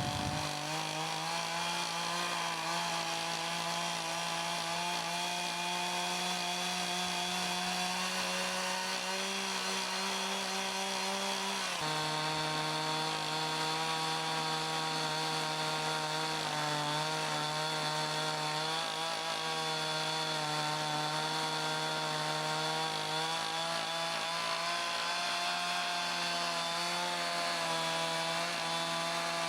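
Chainsaw in an Alaskan sawmill ripping lengthwise through a maple log at a steady high speed, under load. About twelve seconds in, the engine pitch drops suddenly and stays lower, with small dips as the cut goes on.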